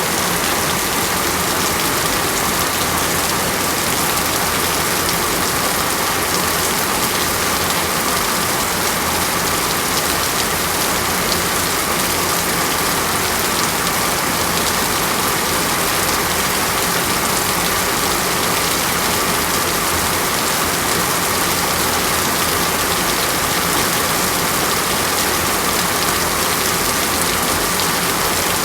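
Steady, even rain falling on a surface, a continuous dense hiss of drops with no breaks or changes.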